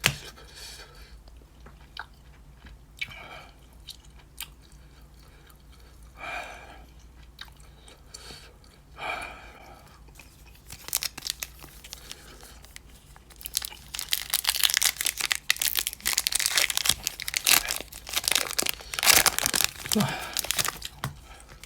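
Foil Pokémon booster pack wrapper crinkling and crackling close to the microphone as it is handled and torn open, dense for about the second half. Before that, a few short, heavy breaths a few seconds apart and scattered light clicks.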